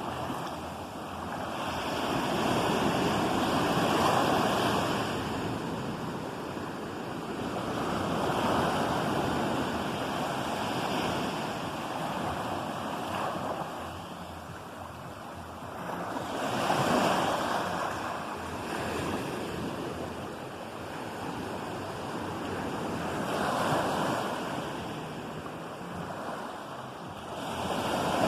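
Ocean surf: waves breaking and washing in, the rush swelling and easing back every four to six seconds.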